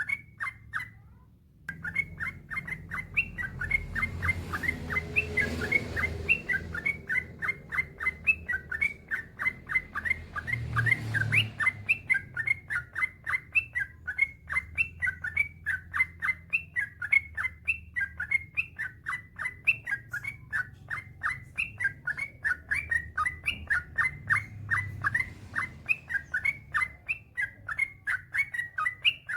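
Yellow-vented bulbul (trucukan) singing a long, fast run of short chirping notes, about four a second, after a brief pause about a second in. Faint low rumbling lies underneath.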